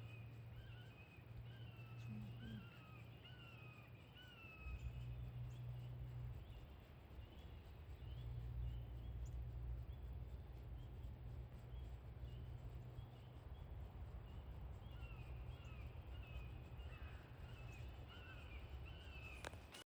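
Birds calling outdoors: series of short, down-slurred notes repeated many times, a run in the first few seconds and another near the end, over a faint steady low rumble.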